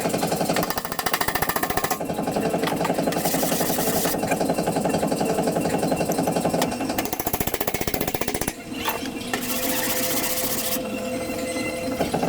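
A power tool hammering rapidly and steadily on car body sheet metal, with two short stretches of high hiss and a brief drop-out about two-thirds of the way in.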